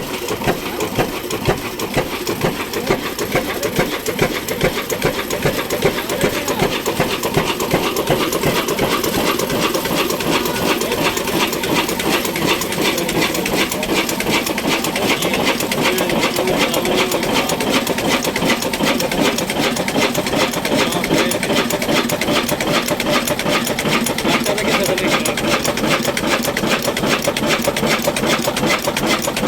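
Ruston Hornsby diesel engine running with a rapid, even mechanical clatter.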